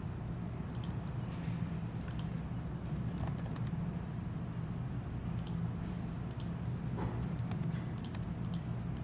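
Scattered clicks of a computer keyboard, often two or three close together, over a steady low hum.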